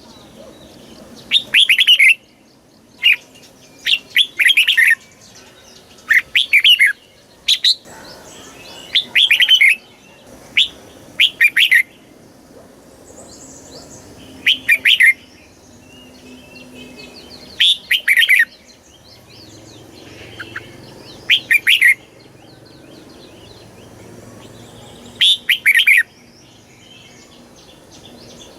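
Red-whiskered bulbul singing: about a dozen short, loud, warbling phrases, each under a second long, repeated at irregular intervals with brief pauses between them.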